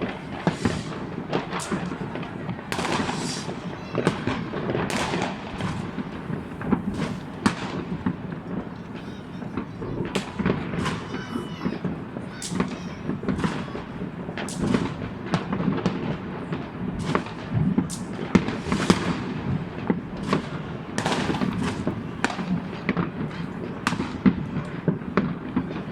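New Year's fireworks going off all around: a continuous barrage of sharp cracks and bangs at irregular intervals, some followed by crackling, over a steady rumble of distant explosions.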